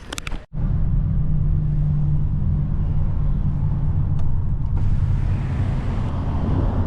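Steady low road rumble of a car driving, heard from inside the cabin; it starts abruptly about half a second in.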